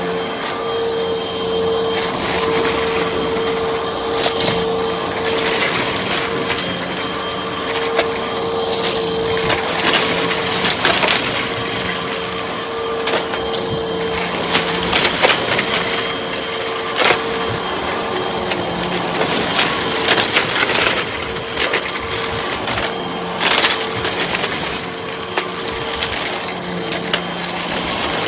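Hoover vacuum cleaner running with a steady motor whine while it sucks up crunchy debris, which crackles and snaps against the cleaner in quick, irregular clicks.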